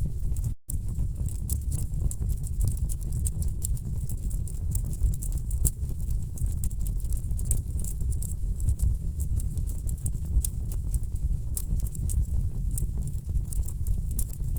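Wood fire burning in a fireplace: logs crackling with a dense run of sharp pops and snaps over a low rumble of flame. The sound cuts out for an instant about half a second in.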